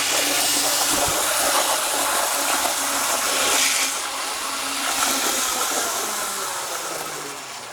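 Athearn first-generation HO-scale model diesel locomotive running along the track, its flywheel motor and gears whirring with a hiss of wheels on rail. It slows as it coasts, the whir dropping a little in pitch and fading toward the end.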